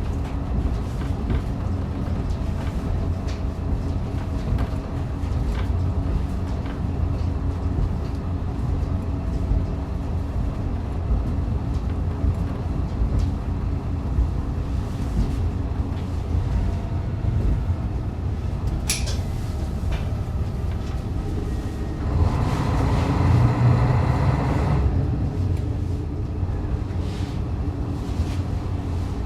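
Diesel railcar of the Rumoi Main Line running between stations, heard from inside the car: a steady low rumble of engine and wheels on rail. About two-thirds of the way through there is a brief sharp high sound, and soon after a louder stretch of about three seconds with a held tone.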